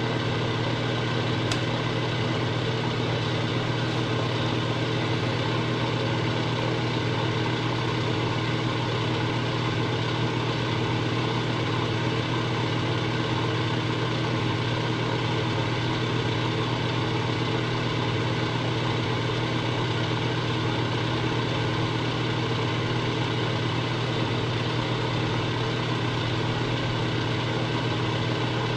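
Machine tool running steadily under power, taking the final boring pass through an engine frame's cylinder bore: an even, unbroken hum with a strong low drone.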